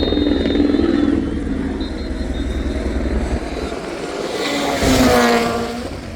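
Rally car engine noise. About five seconds in, a car passes close by, loud, with its engine note falling as it goes.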